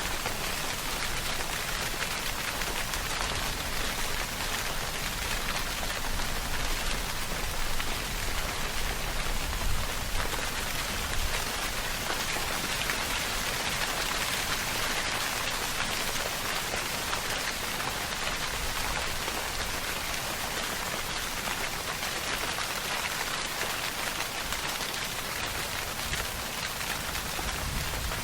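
Steady heavy rain falling and pattering on a surface, a dense even hiss with slight swells in loudness.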